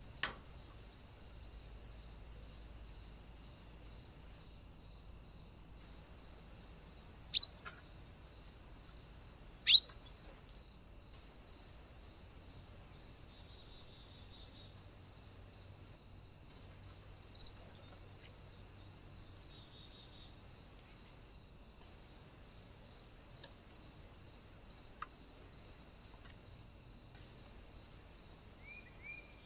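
Birds at a feeder: a few very short, sharp chirps or taps stand out, one near the start, two about seven and ten seconds in, a quick pair about twenty-five seconds in, and a softer chirp near the end. Under them runs a steady high hiss with a faint, even pulsing.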